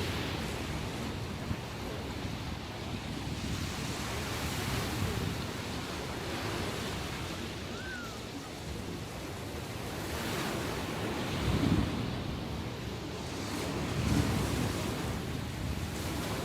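Waves breaking and washing on the shore, the surf swelling louder a couple of times in the second half, with wind buffeting the microphone.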